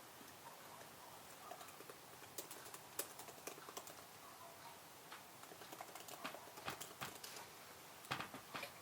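Faint typing on a computer keyboard: irregular key clicks in short runs, starting about a second and a half in, with the loudest cluster near the end.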